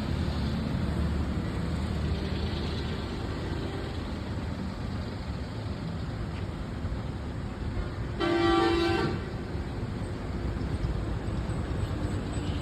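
A car horn toots once for under a second, about eight seconds in, over a steady rumble of vehicle and street noise.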